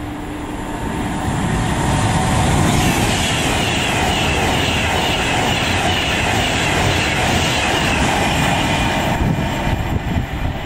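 A Class 390 Pendolino electric express train passing at speed: a loud, steady rush of wheels on rail and air that swells about two seconds in and eases near the end. A high whine sweeps down over and over through the middle.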